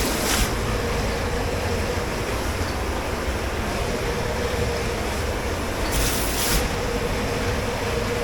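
Steady noise of a commercial kitchen dish pit: machinery running with a faint hum, interrupted by brief hissing bursts at the start and again about six seconds in.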